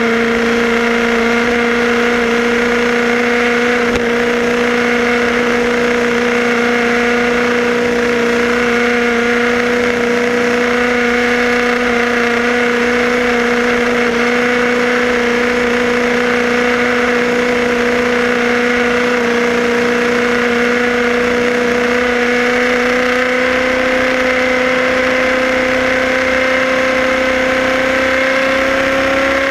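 Radio-controlled car's motor running at a steady, unchanging pitch, drifting slightly higher near the end.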